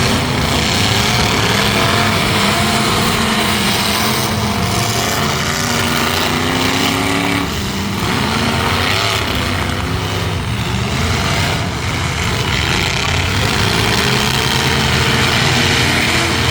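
Several demolition-derby trucks' engines running at once, loud and continuous, their pitches rising and falling as the drivers rev.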